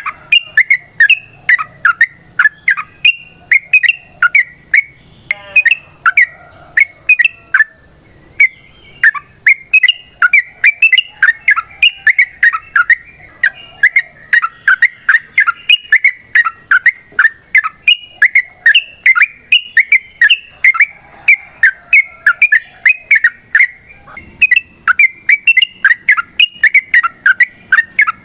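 Yellow-vented bulbul (trucukan) singing a long, rapid run of short chattering notes, several a second, with only brief breaks. A steady high-pitched buzz runs behind it and stops near the end.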